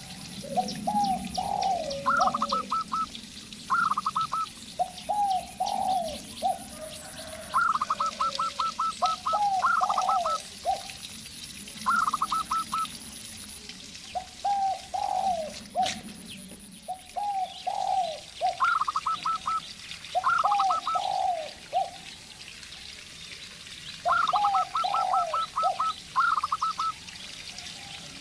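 A zebra dove and a spotted dove calling back and forth. Quick series of short, higher coo notes alternate with lower phrases of falling coos, repeating every second or two.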